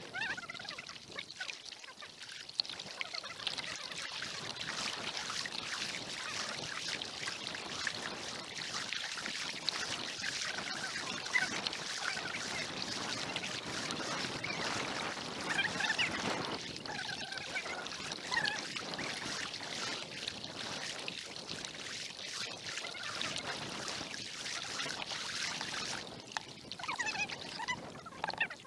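Kayak paddling on lake water: steady trickling and splashing as water runs off the paddle blades and along the hull.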